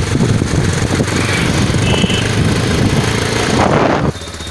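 Bajaj Pulsar 220F's single-cylinder engine running on the move, with wind rushing over the microphone; about four seconds in, the noise drops suddenly to a quieter, steady engine hum.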